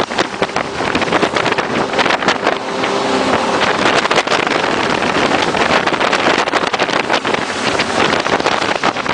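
Jet boat running at speed, its engine and rushing water under heavy wind buffeting on the microphone, with constant crackling hits.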